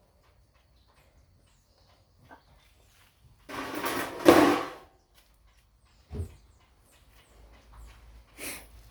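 Washing machine parts being handled during disassembly: a loud scraping slide about a second and a half long, a single knock a little later, and a shorter scrape near the end.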